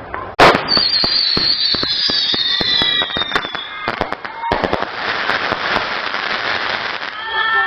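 500-gram Saturday Night Special firework cake firing. There is a sharp bang about half a second in, then several whistling shots sliding down in pitch, another bang, and a dense crackle that carries on.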